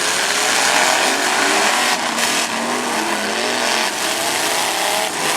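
Several demolition derby trucks' engines revving hard at once, pitches rising and falling over a loud, steady din.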